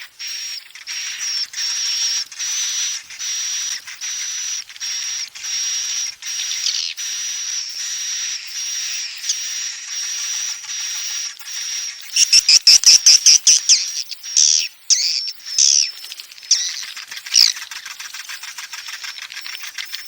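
Swiftlet call recording: high, shrill swiftlet chirps repeated about twice a second, then a fast rattling trill and a few quick rising and falling twitters past the middle. It is the lure sound played to draw and settle swiftlets in a nesting house.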